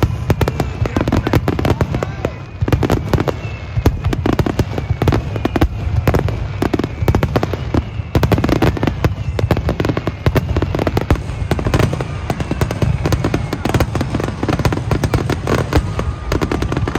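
Fireworks display: a dense, continuous barrage of shells bursting in rapid succession, with booms and crackling that never let up.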